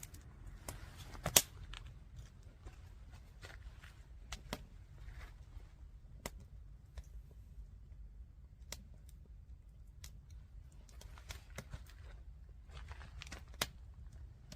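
Firewood giving sporadic sharp snaps and crackles at irregular intervals, one much louder snap about a second and a half in, over a steady low rumble.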